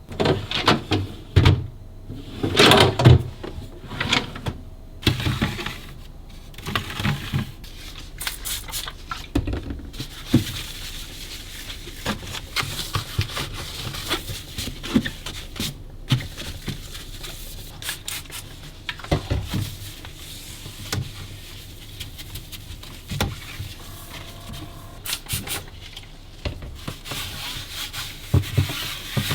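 Kitchen handling noises: a string of knocks and clatters with rustling between them, as things are moved about and set down, busiest in the first few seconds.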